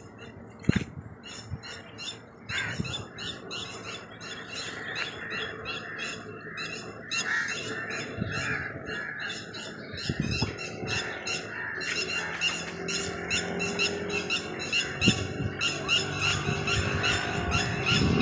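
Many birds chirping in a dense, rapid chatter with occasional squawks, growing louder over the second half.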